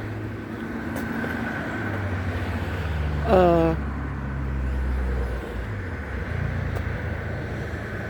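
Highway traffic: a steady low rumble of passing vehicles that swells and fades. About three seconds in, a short voice sound falls in pitch.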